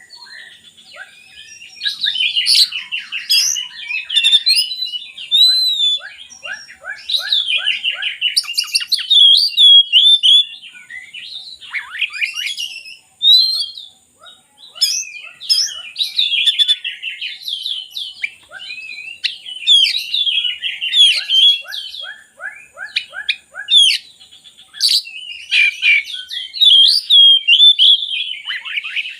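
Oriental magpie-robin (kacer) singing a long, varied song of loud whistles and rapid trills, with a short pause about halfway.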